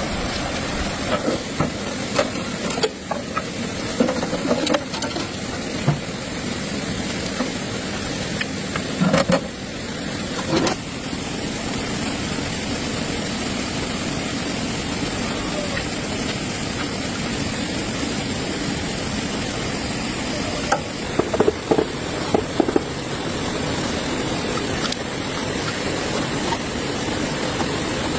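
Tractor engine running steadily, with a few short metallic knocks and clinks from work on the machine.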